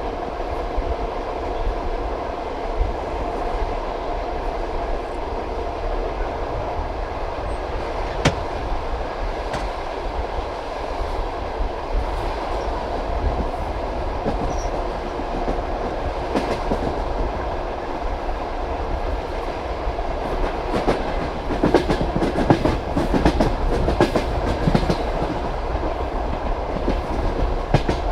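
Passenger train carriage wheels knocking over the rail joints with a steady rolling rumble. About three-quarters of the way through, the clatter grows louder and busier for a few seconds.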